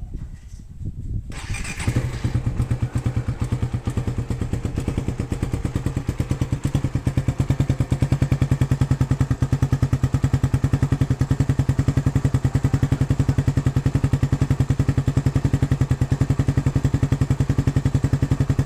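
Suzuki Satria FU 150 fuel-injected motorcycle's single-cylinder engine, breathing through a stock SCD 'Euro' exhaust with a racing header, starts about a second in and settles into a steady idle with an even, rapid exhaust pulse. The note is slightly bassy.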